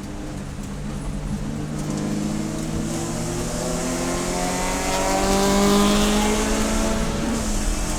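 Race car engine accelerating, its pitch climbing steadily and growing louder to a peak about six seconds in. A little after seven seconds in the pitch drops sharply and the engine pulls on at a lower note.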